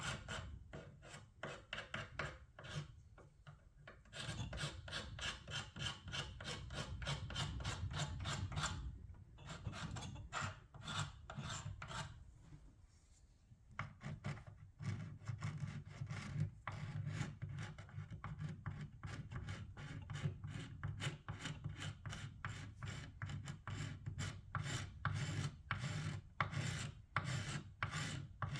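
Hand-worked strokes abrading old paint and finish off wood: a fast run of rasping strokes, about three a second, easing off briefly twice.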